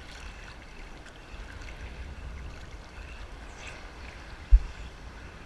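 Sea water sloshing and washing around a person in the surf, with wind rumbling on the microphone. There is a single sharp low bump about four and a half seconds in.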